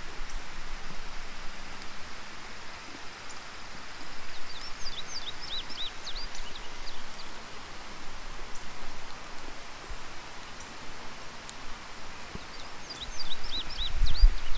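Steady rain hiss, with a songbird singing a quick phrase of high whistled notes twice, about four seconds in and again near the end. A brief low rumble comes near the end.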